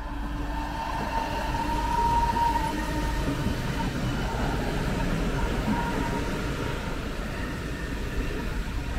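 A train running through the station: wheels rumbling on the rails with a steady high whine, loudest about two seconds in.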